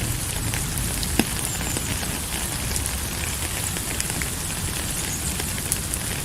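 Steady rain falling, a constant hiss with a low rumble beneath and scattered sharp drop ticks, one louder tick about a second in.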